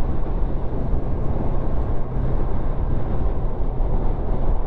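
Motorcycle riding along at steady speed: a low engine drone under heavy wind and road noise on the rider's microphone.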